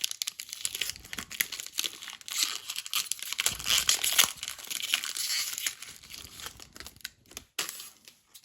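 Foil wrapper of a Pokémon card booster pack being torn open and crinkled, a dense crackle busiest in the middle and dying down near the end.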